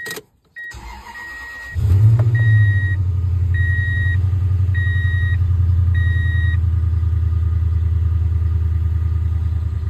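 2004 Toyota Tundra's 4.7-litre V8 being cranked and catching about two seconds in, flaring up briefly, then settling to a steady, pulsing cold idle. A dashboard warning chime beeps about once a second over the start, five or six times. The engine has a cylinder 1 misfire (code P0301), which the owner says shakes it once it warms up.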